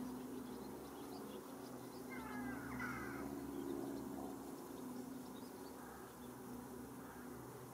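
A short bird call of a few gliding notes about two to three seconds in, over a steady low hum.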